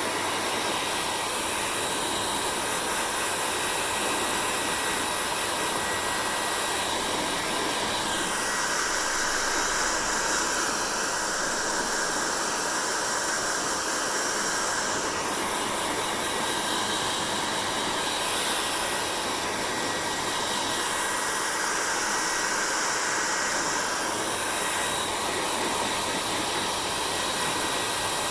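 Hair dryer blowing steadily, a continuous rushing hiss whose tone brightens and dulls a few times as the airflow shifts.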